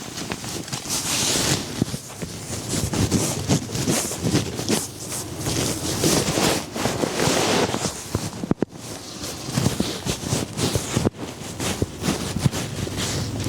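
Strong gusty wind in a snowstorm buffeting the microphone, swelling and easing in waves with a rough crackle, and briefly dropping out twice in the second half.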